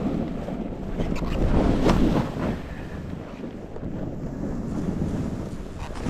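Wind rushing over the microphone while a snowboard slides and scrapes over the snow, swelling loudest about a second and a half to two seconds in.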